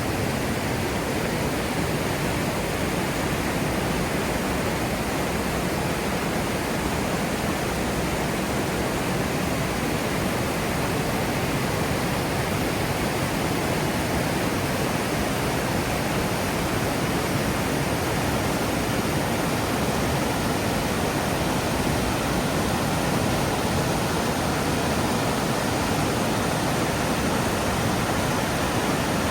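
Steady, even rushing noise of heavy rain and running water.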